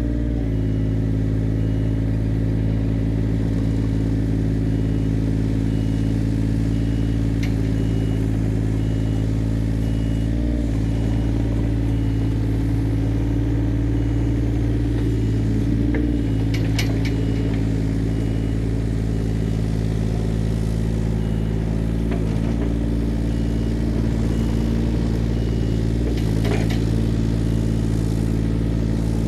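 Takeuchi TB135 mini excavator's diesel engine running steadily, its pitch dipping briefly a few times as the hydraulics take load.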